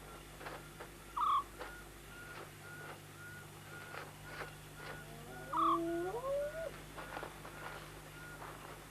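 Night-time animal ambience: a short, sharp call rings out twice, about a second in and again past the middle. Under it a faint high pip repeats about twice a second, and some rising whining calls and scattered scratchy clicks come through near the middle.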